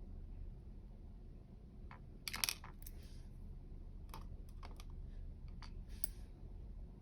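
Small metal clicks and taps from handling a dimple lock's cylinder and its tiny pins and springs during disassembly, with a quick rattle of several clicks about two seconds in, then single clicks spread over the rest.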